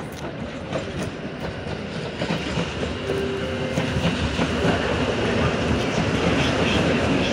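Koleje Mazowieckie electric multiple unit approaching and running past, growing steadily louder, its wheels clicking over rail joints. A short whine comes in about three seconds in.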